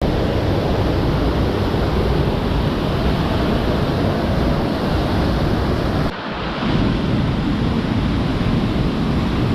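A waterfall rushing, a loud steady roar of falling water, which drops briefly and changes tone abruptly about six seconds in.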